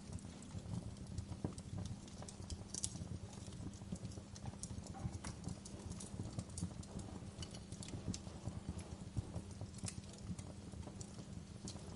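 Fire crackling, with irregular small pops and snaps over a low, steady rumble of the flames.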